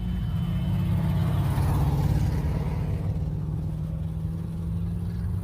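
Car engine running at low revs as a car drives out past, louder for a moment about two seconds in.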